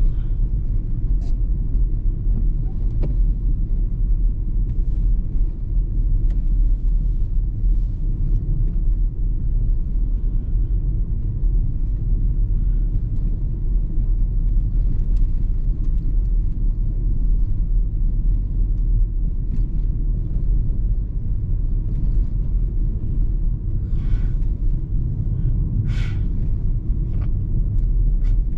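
Steady low rumble of a car driving on the road, heard from inside the cabin, with a few faint ticks and a couple of brief sharper clicks near the end.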